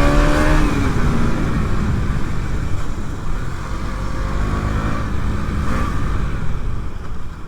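KTM Duke 200 single-cylinder motorcycle engine pulling under way, with wind rushing over the microphone. The revs climb and ease off about a second in, then climb again midway and drop back near the end.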